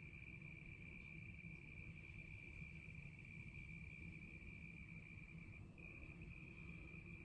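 Cricket trilling in one steady, high, unbroken note that breaks briefly near the end, over a faint low rumble of background noise.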